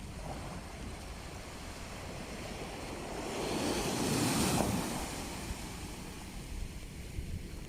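Sea waves washing onto the shore, one wave swelling to its loudest a little past halfway and then falling back. Wind buffets the microphone with a low rumble.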